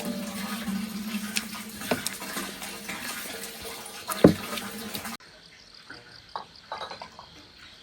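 Water running and splashing, with one sharp, loud knock about four seconds in. About five seconds in the sound cuts off abruptly to a much quieter background of insects chirping.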